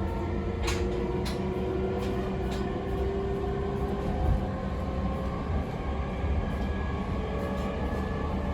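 E217-series train's Mitsubishi IGBT inverter whining under a steady rumble of wheels on rails, its tones rising slowly as the train accelerates. A few sharp clicks come in the first three seconds.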